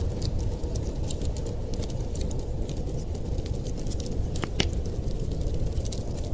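Wood fire crackling, with many small irregular pops and a couple of sharper snaps a little past halfway, over a steady low rumble.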